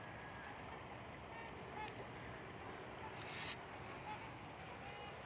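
A flock of waterfowl calling faintly: short calls, one after another, over a steady background hiss, with a brief hiss about three seconds in.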